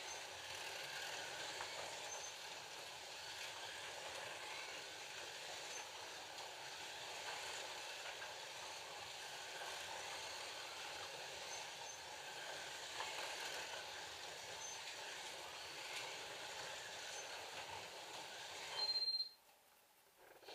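FLY Classic slot cars with 19K motors running on the track, a steady whir of small electric motors and pickup braids on the rails. About 19 seconds in a short, loud, high electronic beep sounds and the whir cuts off suddenly.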